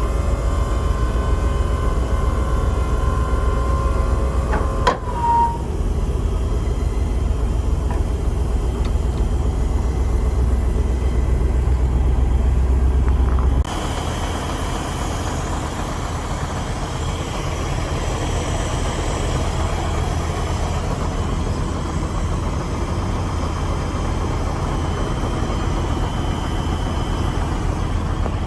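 1987 Chevrolet flatbed truck's engine running at idle, a steady low rumble. A steady high whine stops with a click about five seconds in, and the low rumble drops abruptly about halfway through.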